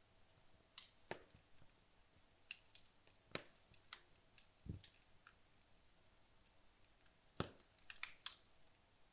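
Wood logs burning in a fireplace: sparse, irregular crackles and sharp pops, about a dozen, with the loudest pop about seven seconds in.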